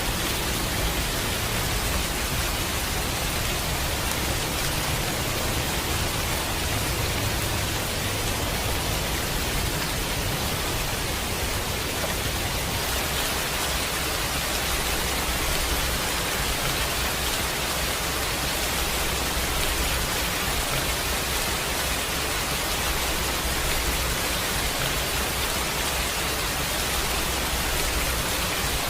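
Steady heavy rain falling, an even hiss with no thunderclap in this stretch.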